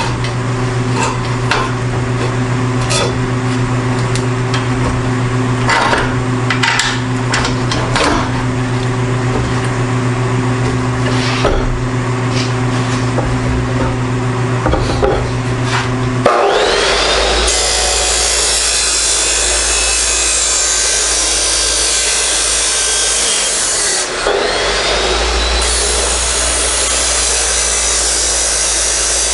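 Power tools cutting steel exhaust tubing. First a steady motor hum with scattered clicks; then, about sixteen seconds in, a high-speed cutting tool spins up with a rising whine and grinds harshly. It drops briefly near twenty-four seconds and spins up again.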